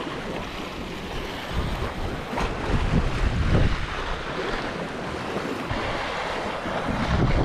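Strong wind buffeting the microphone in uneven low gusts, over the wash of choppy sea.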